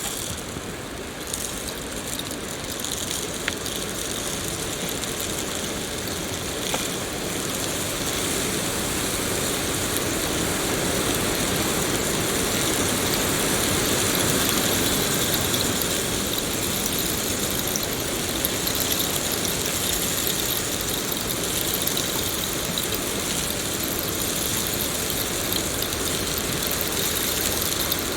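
Steady rainfall, a continuous hiss that swells a little about halfway through and then holds.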